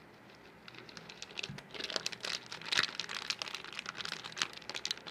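Crinkling and rustling with many rapid small clicks, starting about a second in: handling noise while spices are added to and worked into raw chicken.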